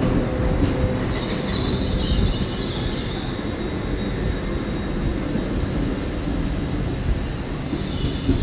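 A train moving slowly through the station, running with a steady low rumble, its wheels squealing on the rails about a second in and again near the end.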